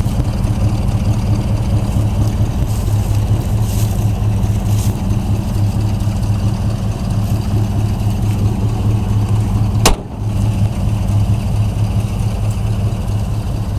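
A 327 small-block V8 in a 1959 truck idling steadily and smoothly. A single sharp click about ten seconds in.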